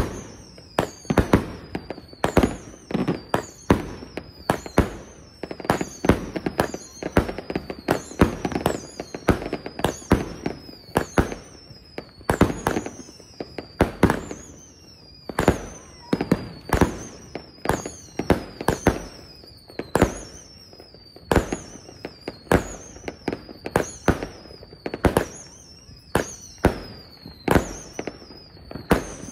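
Consumer fireworks firing a steady barrage of sharp bangs. Each shot brings a whistle that falls in pitch, about one every second and a bit.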